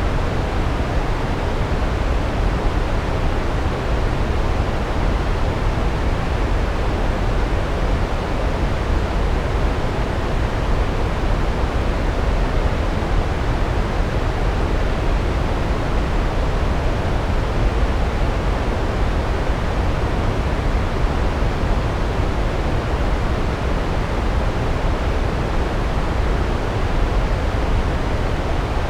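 Large waterfall, water pouring down over rocks in a steady, unbroken rush that is heaviest in the deep low end.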